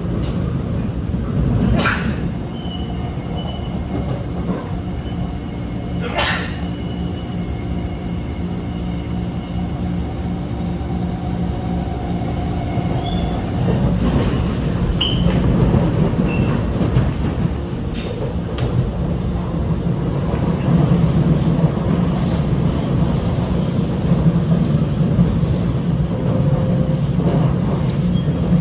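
SMRT R151 metro train heard from inside the car, running with a steady traction-motor tone and rolling rumble. Sharp clacks come about 2 and 6 seconds in, and twice more about 18 seconds in, as the wheels pass over a crossover's points.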